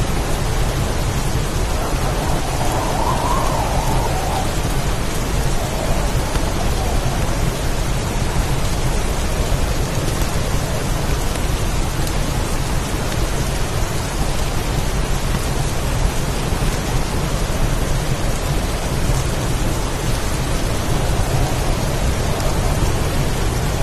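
Heavy rainstorm: a steady downpour over a constant low rumble. A faint higher howl of wind swells up about two seconds in and again near the end.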